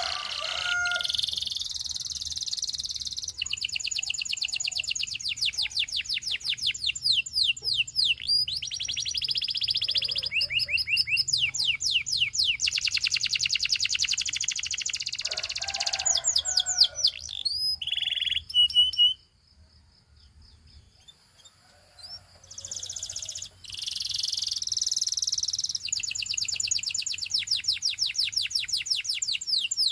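Canary singing a long, high-pitched song of rapid trilled phrases, each a fast run of repeated notes that switches to a new pattern every second or two. It breaks off for about three seconds roughly two-thirds of the way through, then starts again.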